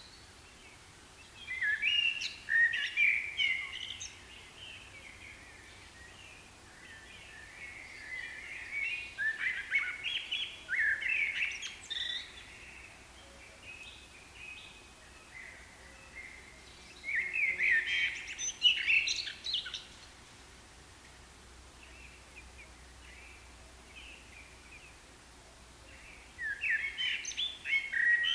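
Wild songbird singing in bursts of rapid, jumbled chirping notes, each lasting a few seconds, four times with quiet pauses between them over a faint steady background hiss.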